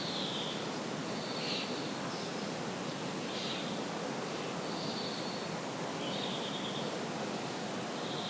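Countryside ambience: a steady rustling hiss with short, high, trilling chirps repeating about once a second.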